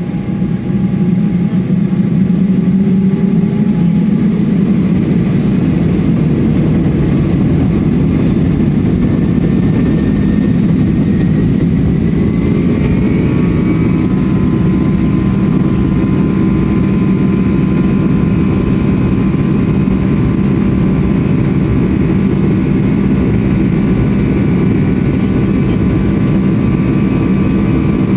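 Boeing 757-200 jet engines heard from inside the passenger cabin during takeoff. They grow louder in the first second or two, then hold a loud, steady rumble, with whining engine tones that climb in pitch about twelve seconds in.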